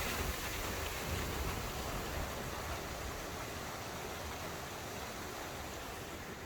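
Small vertical stream of water falling and splashing down, a steady rush of water that slowly gets quieter.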